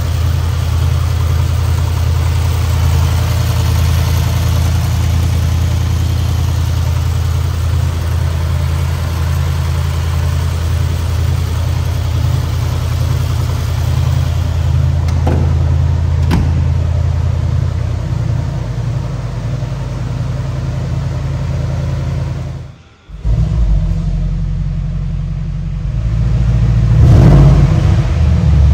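Mercedes-AMG GLS63's twin-turbo V8 idling steadily with a deep, even hum. The sound cuts out briefly about three-quarters of the way through, and near the end the engine is revved, growing louder.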